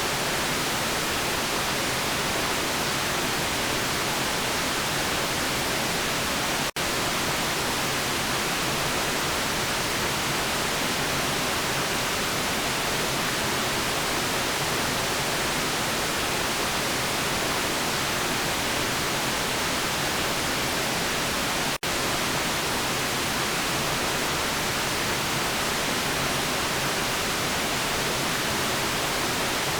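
Steady white noise for sleep, an even hiss brightest in the upper range, which cuts out for an instant twice.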